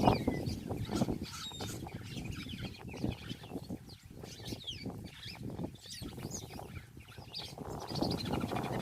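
Birds calling in many short chirps and quick sweeps, over a dense low rustling noise that is loudest at the start and swells again near the end.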